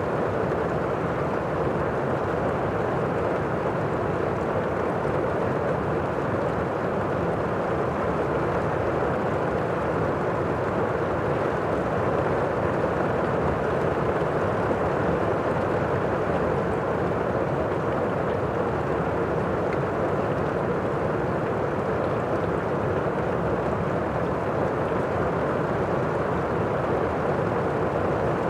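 Heavy rain heard from indoors: a steady, muffled hiss of rainfall with the high frequencies damped by the walls and windows.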